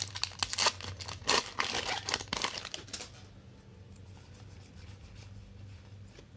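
Foil trading-card pack wrappers crinkling and tearing as the packs are handled, in quick scrapes for about three seconds, then only a steady low hum.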